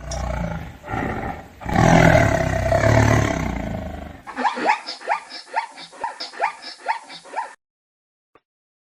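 An animal's loud, low roaring call for about four seconds, then, in a separate clip, a quick run of short rising chirps, about four a second, that stops about three seconds later.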